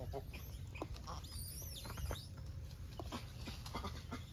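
Outdoor ambience: a steady low rumble on the microphone, a bird chirping in a few quick sliding notes about a second and a half in, and scattered light ticks and rustles.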